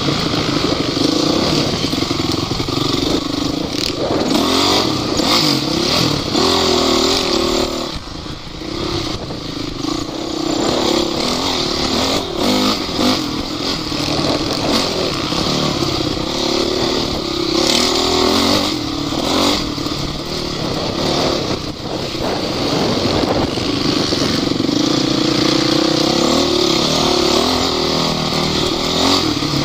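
Off-road vehicle engine running hard, its pitch rising and falling as the throttle is worked over rough ground, with rattles and knocks from the vehicle.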